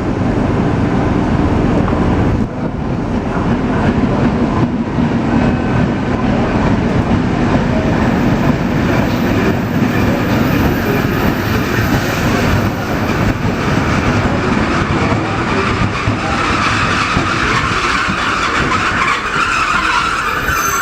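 Mat '64 Plan V electric multiple unit rolling into the station, a steady rumble of wheels on track. In the last few seconds a squeal of the brakes grows stronger as the train slows to a stop.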